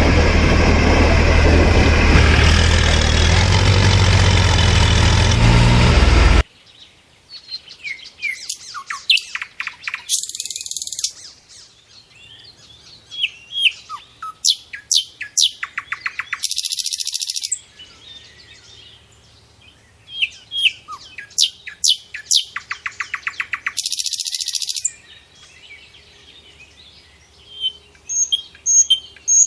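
Birds chirping and calling, many short whistles and chirps with three brief fast trills. Before that, a loud dense sound cuts off suddenly about six seconds in.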